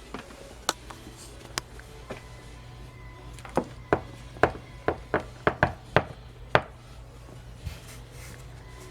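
A run of sharp taps or knocks, about ten in quick succession through the middle, after a few scattered ones near the start, over a low steady hum.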